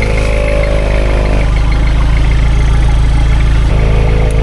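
A 3.0-litre turbo-diesel engine idling steadily. Over it a fainter, slowly falling hum stops about a second and a half in and returns near the end.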